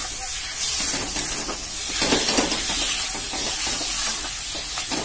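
Tomato pieces sizzling as they fry in hot oil and spiced onion masala in a kadhai: a steady hiss that swells briefly about two seconds in.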